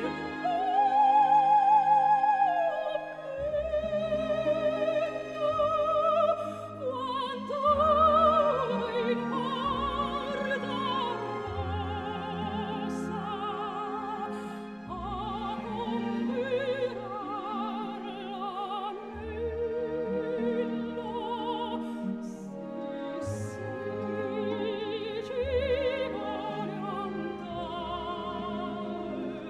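Operatic singing with strong vibrato over an orchestral accompaniment: a classical aria playing as background music.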